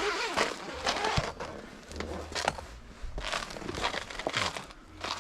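Irregular rustling and crinkling of synthetic tent fabric or gear being handled, with a few sharp clicks mixed in.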